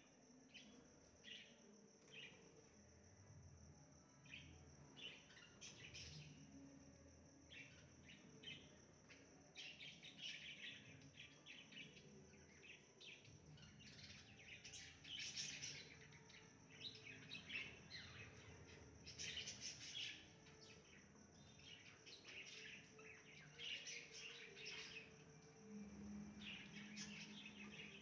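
Faint birds chirping in many short, repeated calls, over a steady high-pitched insect trill.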